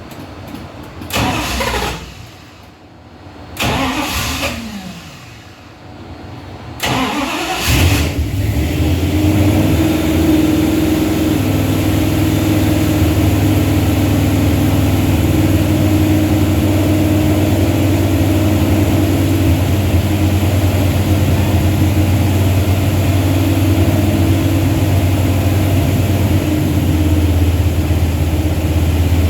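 Dodge 360 Mopar LA V8 being started: it fires briefly twice and dies away, then catches about seven seconds in and keeps running steadily. It is struggling to stay running, which the owner suspects is a bad vacuum leak.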